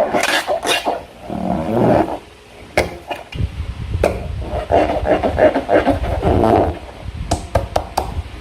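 Slime being squished and worked by hand: irregular wet squelches and sharp clicks, with a low rumble added from about a third of the way in.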